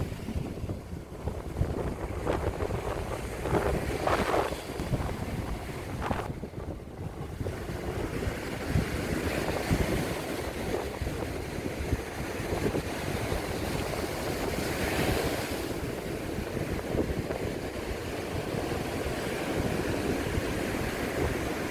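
Ocean surf rolling in and breaking, swelling and washing in repeatedly, with wind buffeting the microphone.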